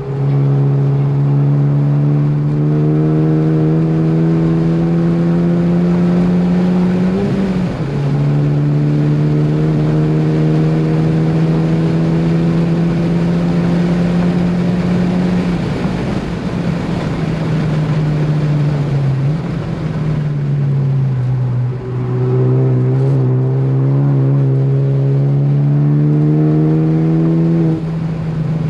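Ford Focus ST engine working hard on track, its note climbing under full throttle. It upshifts with a sudden drop in pitch about seven seconds in, pulls again, and falls off for a few seconds past the middle as the car slows for a corner. Then it climbs once more and shifts again near the end.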